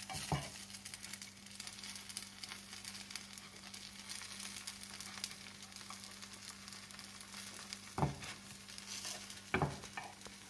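Paniyaram batter sizzling and crackling in oil in the wells of a kuzhi paniyaram pan as the half-cooked dumplings are turned over with a wooden stick. Three sharp knocks of the stick against the pan come at the very start and twice near the end.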